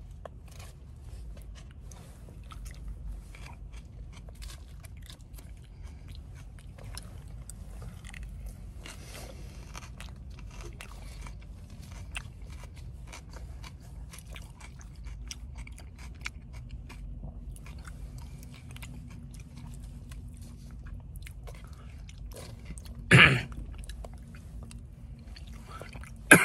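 Close chewing and crunching of a mouthful of salad bowl (spicy chicken on rice with lettuce, jalapeños, green peppers and pickled onions), heard as many small irregular crunches over a low steady hum inside a car's cabin. One loud, sharp sound stands out about 23 seconds in, and another comes near the end.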